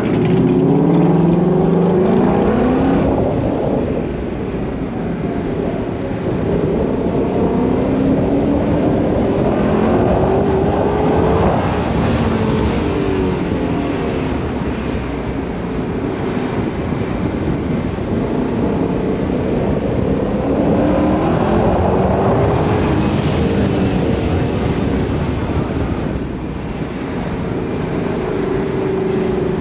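Car engines driving past one after another, each rising and falling in pitch as it approaches and goes by.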